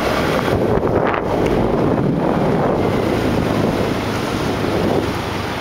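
Wind buffeting the microphone on a moving motorbike, a loud, steady rumble that masks the bike's own sound.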